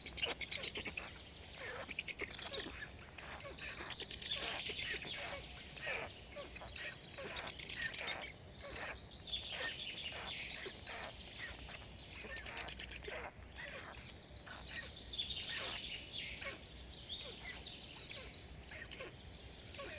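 Birds chirping: many short, high notes in quick overlapping runs, with a few higher trilled calls near the end.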